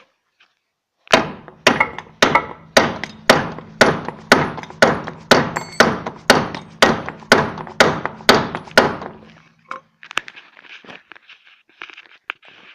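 Hammer blows on metal, about sixteen steady strikes roughly two a second, each ringing briefly: knocking a seized original part of a 1989 VW Golf 2's wheel hub assembly loose without a puller. The hammering stops about nine seconds in, followed by faint scraping and handling of metal parts.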